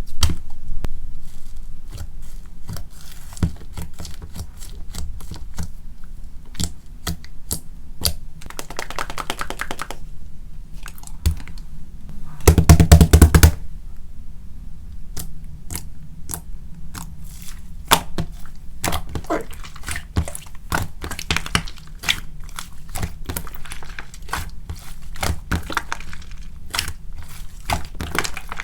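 Slime mixed with instant snow being squished, poked and folded by hand: a running series of small sticky clicks and pops, with a louder dense squelch about twelve seconds in. The instant snow mutes the usual bubble-popping sounds.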